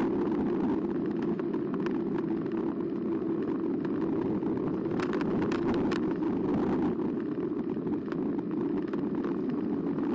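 Steady riding noise from an e-bike in motion: a continuous rumble of tyres and wind, with scattered clicks and rattles from bumps.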